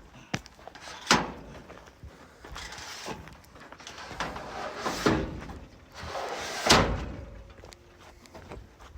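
Solar panels and mounting racking being handled during installation: a few sharp knocks and bangs, the loudest about a second in and near seven seconds in, between fainter rustling and scraping.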